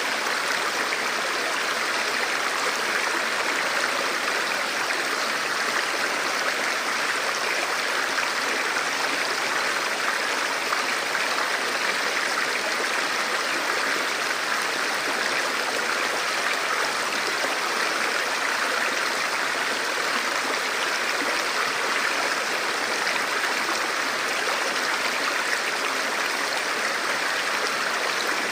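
Forest river flowing steadily over rocks, an even rushing of water.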